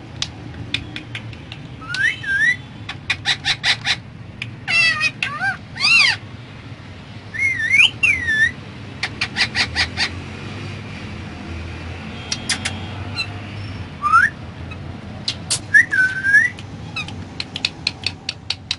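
Indian ringneck parrot vocalizing: rapid runs of sharp clicks mixed with short whistled calls that glide up and down in pitch.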